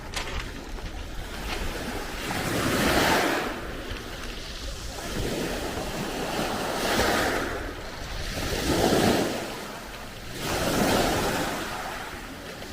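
Black Sea waves breaking and washing up the shore. The surf swells and falls back in repeated surges, four times over.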